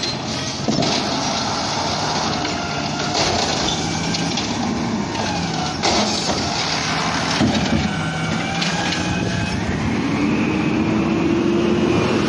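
Garbage truck at work: its engine and hydraulics run, with several sharp metal clanks, and the engine pitch rises near the end.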